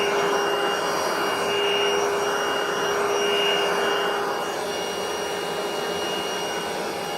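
Vax TBTTV1T1 cordless stick vacuum running steadily at full speed on its power latch, a constant motor whine over airflow noise, with the power head's brush bar switched off and not turning.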